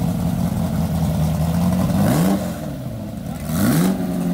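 De Tomaso Pantera's V8 idling with a steady low note, then blipped twice as the car pulls away: the revs rise and fall quickly about two seconds in, and rise again near the end.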